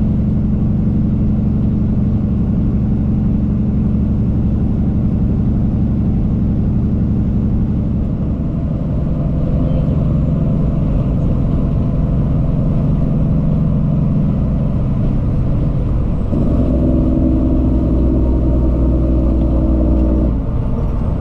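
Cummins ISX inline-six diesel in a Peterbilt 379 running under way, heard from inside the cab. The engine note shifts about eight seconds in, steps up and gets louder about sixteen seconds in, then drops just before the end.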